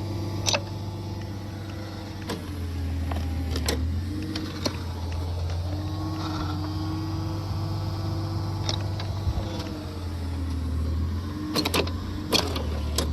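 Engine-driven post hole auger running steadily while boring against a tree root in frozen ground, its drive tone sagging and recovering in pitch under load. Sharp clicks and knocks come through, several close together near the end.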